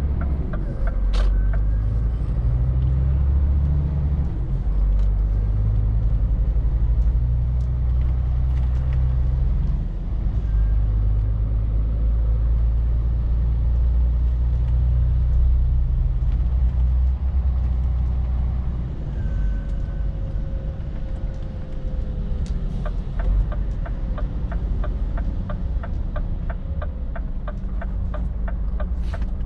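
Scania R450 lorry's diesel engine running on the road, a steady low drone whose pitch shifts up and down several times. Near the end a regular fast ticking starts, about two to three clicks a second.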